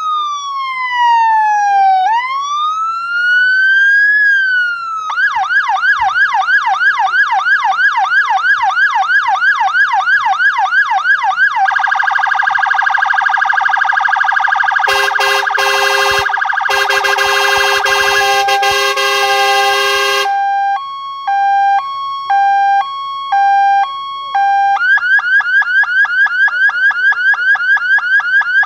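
A fire engine's electronic siren cycling through its tones: a slow rising-and-falling wail, then a fast yelp for several seconds, then a steady high tone with a harsher pulsing blast layered in. After that comes a two-tone hi-lo alternation, about one change a second, before it switches back to the fast yelp near the end.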